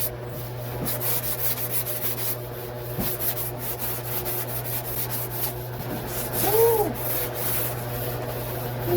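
Orbital sander running over a patched steel truck-bed side panel, a steady motor hum under repeated rasping sanding strokes.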